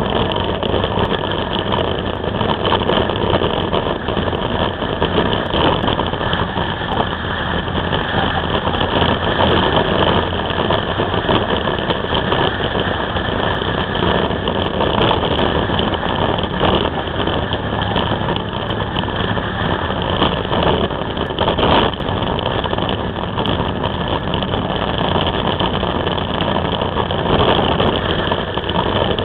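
Can-Am Spyder engine running steadily at road speed, picked up by a camera mounted on the trike, mixed with a constant rush of road noise; the sound holds even throughout with no gear changes or revving.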